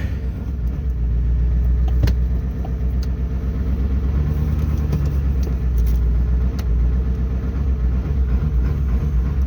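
Ford 7.3L Powerstroke V8 turbo-diesel running steadily at idle, still running even with a cracked injector cup. A few light clicks sound over it.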